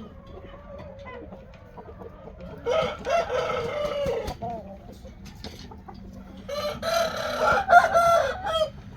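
A rooster crowing twice, each crow lasting about one and a half to two seconds, with a few seconds between them. A faint low steady hum runs underneath.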